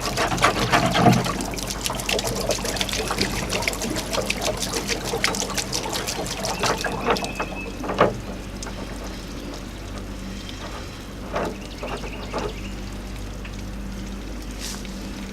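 Water pouring and splashing out of an electric water heater's element opening as the old heating element is pulled from the full tank, easing off about seven seconds in to a quieter trickle. A sharp knock follows, then a few lighter knocks.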